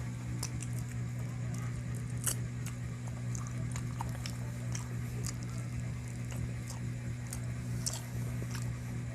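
A person chewing and biting into spicy chicken close to the microphone: irregular small clicks and smacks of mouth and food. A steady low hum runs underneath.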